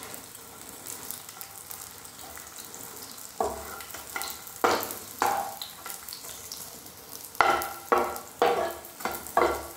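Edible gum (gond) frying in hot ghee with a steady sizzle, being roasted until it puffs up and turns white. From about three seconds in, a metal slotted spatula scrapes against the pan in about eight short strokes as the pieces are stirred and turned.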